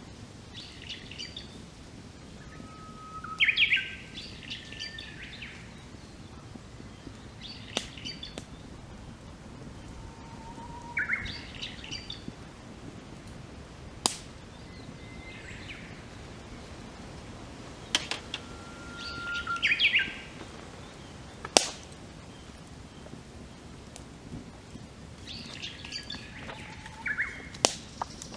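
Birds singing repeated phrases every few seconds, each a held whistle followed by a quick higher warbling flourish, over a wood campfire that gives a sharp pop about five times.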